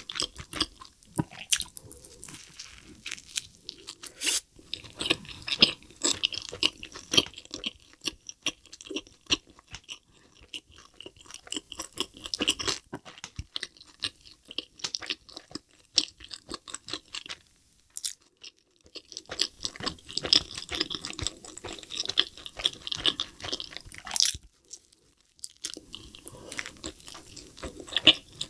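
Close-miked chewing of a double cheeseburger coated in cheese sauce, a dense run of small clicks from the mouth, with two short pauses in the latter part.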